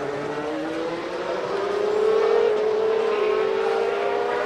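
1995 Formula One racing car engines under acceleration, their high-revving note climbing steadily in pitch and loudest about two seconds in.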